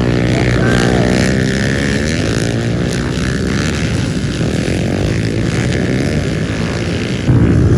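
Several pit bike engines running hard in a race, their pitch rising and falling as the riders work the throttle. The sound gets louder near the end.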